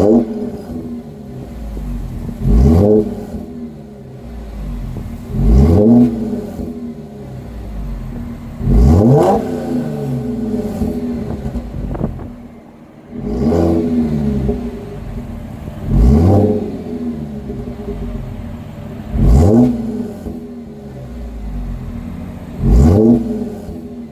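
Audi S4 engine revved in short blips while standing still, about eight times, roughly every three seconds. Each rev climbs quickly and drops back to idle, and the engine idles steadily between revs.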